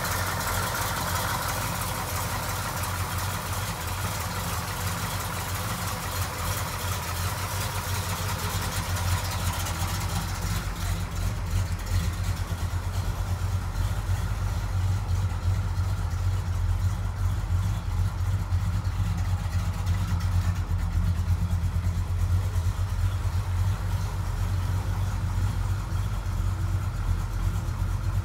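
1966 Mercury Comet Caliente's V8 engine idling steadily.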